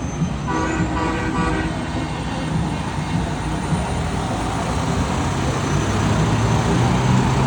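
A truck horn sounds once for about a second, over the steady running of truck engines and road noise, which grows louder toward the end as the trucks roll past.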